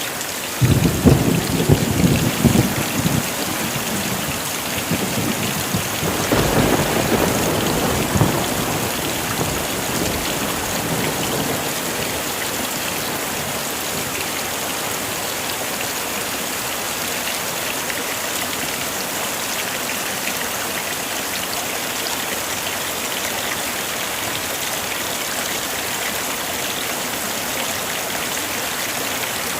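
Heavy rain falling with a steady hiss. A low rumble of thunder starts abruptly about half a second in and dies away over the next few seconds, and a second, softer rumble rolls in around six seconds in.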